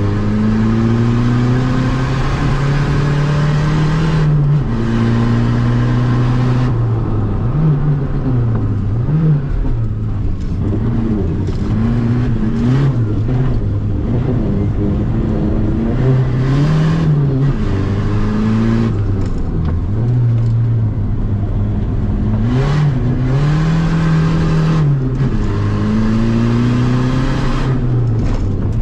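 VW Golf TDI's four-cylinder turbodiesel engine driven hard under load, heard from inside the cabin: the engine note climbs and drops again and again as the car accelerates, changes gear and lifts off.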